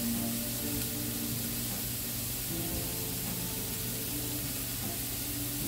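Chopped purple onions sizzling steadily in a little oil in a stainless steel skillet, a constant hiss, with soft background music.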